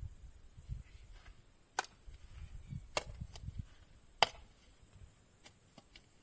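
Spade working soil: soft thuds with three sharp knocks, the loudest about four seconds in.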